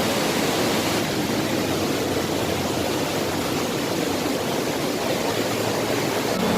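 Steady rush of water from a mountain stream and waterfall close by.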